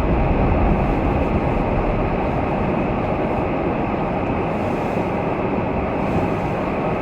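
Steady road noise inside a moving vehicle: a continuous low tyre and wind rumble at highway speed.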